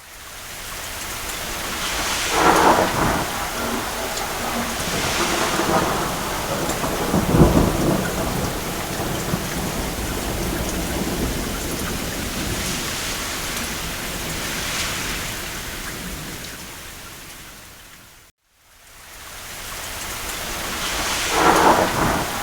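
Steady rain with thunder rumbling several times, loudest about seven seconds in. About eighteen seconds in it fades to silence and then fades back in, with another rumble near the end.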